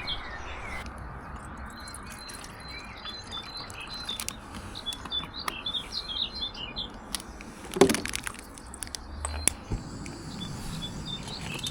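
Small birds chirping and tweeting over a steady background hiss, with scattered light clicks and one sharper knock about eight seconds in.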